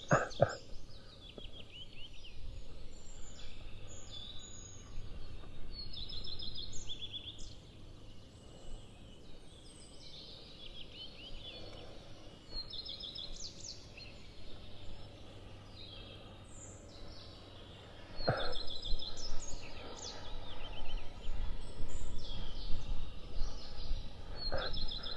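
Songbirds singing: many short, repeated high trills from several birds, over a faint outdoor background. A low rumble rises in the second half.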